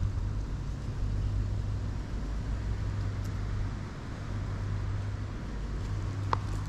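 Steady low hum of an idling vehicle engine, with one short click about six seconds in.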